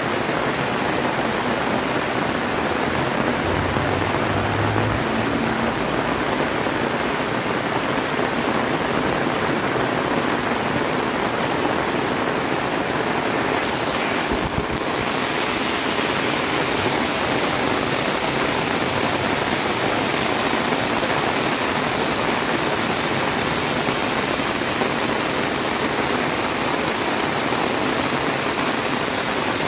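Heavy rain pouring down steadily, a dense, even hiss of water with no letup.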